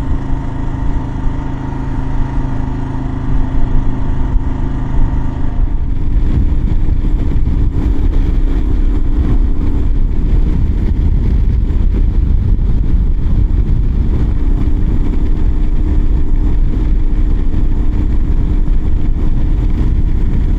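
Kawasaki KLR 650 single-cylinder engine running steadily on the road. About six seconds in, the sound changes abruptly to heavy wind rushing over the microphone at highway speed, with the engine drone underneath.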